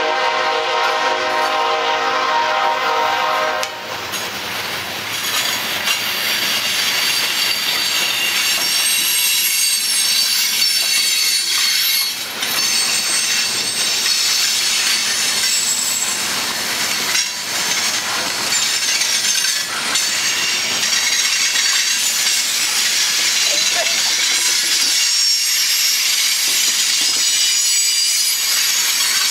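Horn of a BNSF ES44AC lead locomotive sounding a steady chord, cutting off about four seconds in. Then coal hopper cars roll past with steady wheel-on-rail noise and a high-pitched squeal of wheels on the curve.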